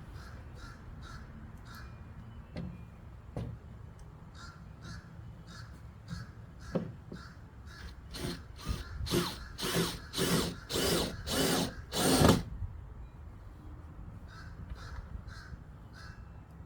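Crows cawing: a few short, faint caws, then a run of about six louder caws in a row that build to the loudest near the end of the run, and a few faint caws again.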